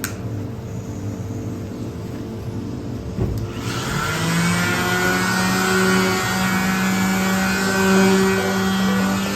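An electric power tool switches on about a third of the way in and runs steadily with a humming whine and a hiss, over a quieter low background.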